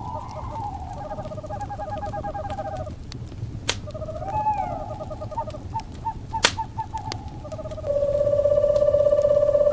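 Owl calls over a crackling fire: short trilled calls, then a long, steady trill starting near the end that is the loudest sound. Two sharp fire pops come between the calls, over a low, steady crackle.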